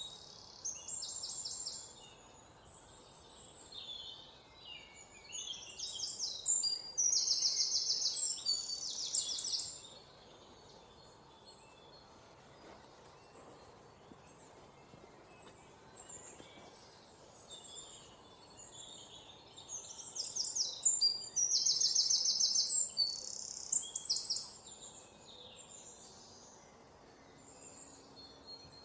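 Songbirds singing and chirping. Loud bursts of rapid high trills come twice, around a quarter of the way in and again past two-thirds, with quieter scattered chirps between them over a faint steady hiss.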